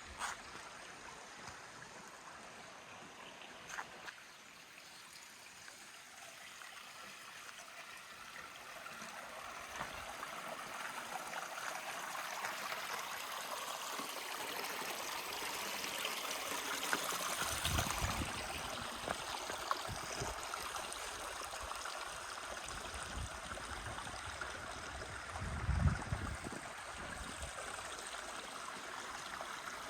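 Creek water flowing and trickling over rocks, growing louder over the first half. Two brief low rumbles come about halfway through and again near the end.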